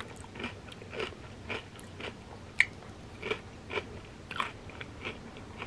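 A mouthful of fried wonton chip and cheesy crab rangoon dip being chewed: soft crunches about twice a second, with one sharper crunch about two and a half seconds in.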